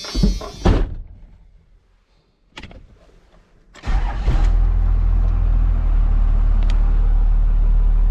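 A couple of short knocks, then about four seconds in an old pickup truck's engine starts and settles into a steady run.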